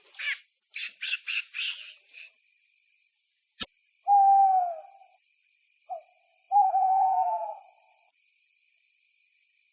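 Outdoor wildlife ambience: a steady high insect drone with a few quick bird chirps at first and a single click. Then come two descending hoot-like calls with a short call between them.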